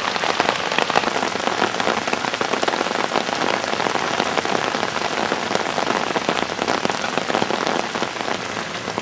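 Steady heavy rain falling, a dense hiss made up of many fine individual drop hits.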